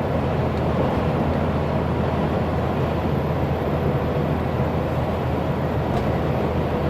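Steady engine and road noise inside the cab of a laden 18-ton rigid commercial truck on the move, a low, even rumble with no change in level.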